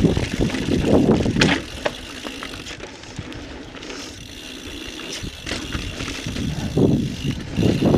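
Intense Recluse full-suspension mountain bike ridden down a dirt trail: tyre rumble and rattling knocks over rough ground, easing off to a quieter, smoother stretch from about two seconds in and getting rough and loud again near the end.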